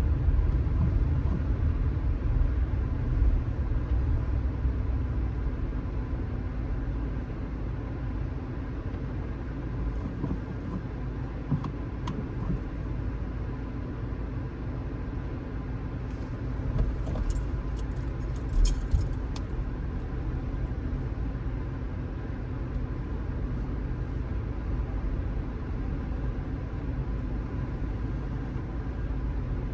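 Strong wind buffeting a phone microphone with a steady deep rumble, over the wash of sea waves breaking on the coast. A few sharp crackles come about two-thirds of the way through.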